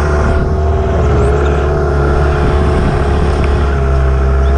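Race boat's motor running hard and steady at high revs, heard close up from on board, its pitch holding nearly level with small shifts.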